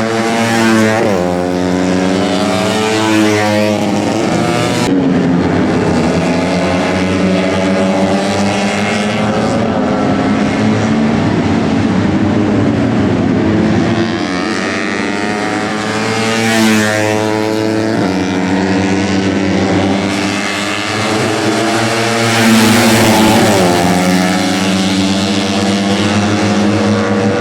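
Tuned four-stroke 130 cc underbone race motorcycles running at high revs, several engines at once, their pitch climbing and dropping as the bikes go by and shift.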